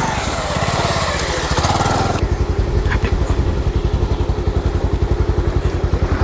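Motorcycle engine running under steady throttle with a fast, even pulse. A rushing hiss sounds over it for about the first two seconds, then cuts off abruptly.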